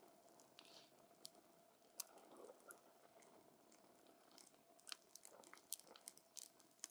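Wood campfire crackling quietly: scattered sharp snaps and pops over a faint hiss, coming thicker in the last couple of seconds.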